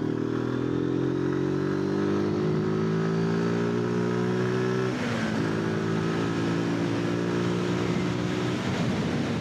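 Zontes 125 motorcycle's single-cylinder engine pulling steadily up through the revs. About five seconds in the pitch drops briefly as it shifts up a gear, then it climbs again.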